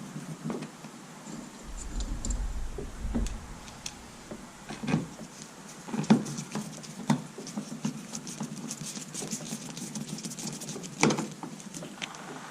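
Scattered clicks and knocks of hands working a tail-light bulb socket and plastic lens housing while fitting a new brake light bulb, with a low rumble about two seconds in.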